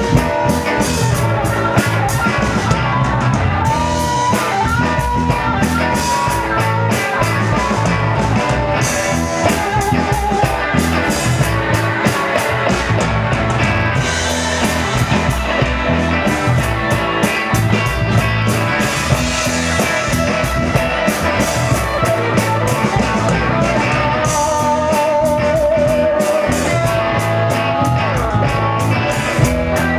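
Live rock band playing an instrumental stretch with no vocals: electric guitar lines with bends over a steady drum beat and bass.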